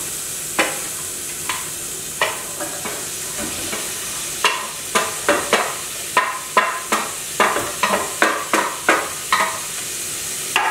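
Chopped bacon and onions sizzling in hot oil in a pot, with a wooden spatula scraping and knocking against the cookware. There are a few knocks early, then a quick run of about three a second from about halfway through until near the end.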